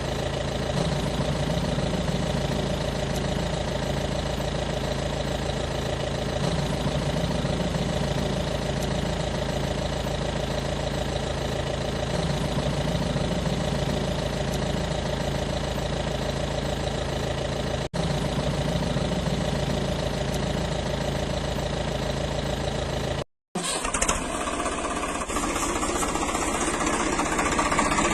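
An engine running steadily with a slow pulsing throb. It breaks off briefly about two thirds of the way in and resumes sounding harsher and noisier.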